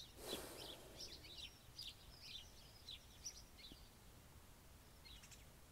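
Faint small birds chirping and twittering over and over, with a brief soft rush of noise just after the start.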